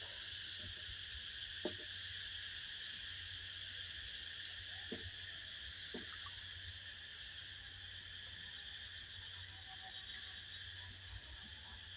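Steady, high-pitched chorus of calling animals, unbroken throughout, with a few faint soft knocks about two, five and six seconds in.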